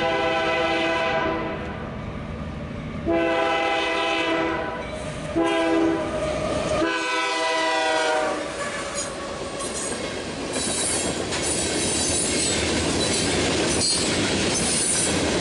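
Freight-train horn on a GE AC4400CW diesel locomotive sounding three long blasts for a grade crossing. The locomotives then pass close by and freight cars roll through with steady wheel clatter and high squeals from the wheels.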